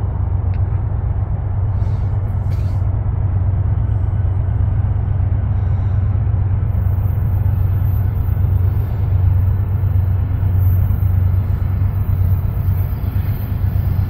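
Diesel freight locomotives leading an empty coal train rumbling past, a steady low drone with no sharp events.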